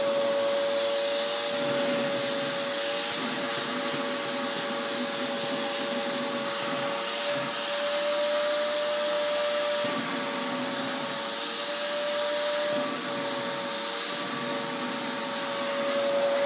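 Vacuum cleaner running, its hose nozzle being worked over a cat's fur: a steady motor whine with a rushing of air, wavering slightly in pitch and loudness.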